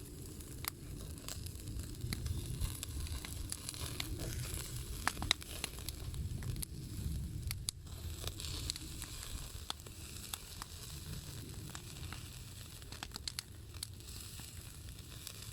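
Campfire crackling, with scattered sharp pops over a low steady rumble, and meat sizzling as it cooks over the fire.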